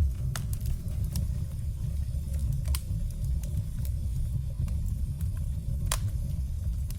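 Firewood burning: a steady low rumble with scattered sharp crackles and pops, the loudest about three seconds in and just before six seconds.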